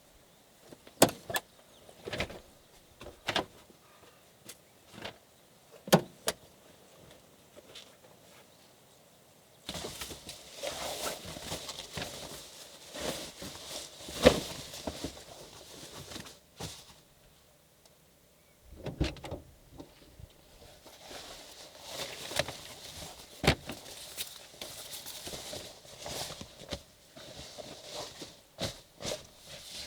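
Camp gear being handled: scattered sharp knocks and clacks over the first several seconds, then two long stretches of rustling and handling noise with more knocks in them.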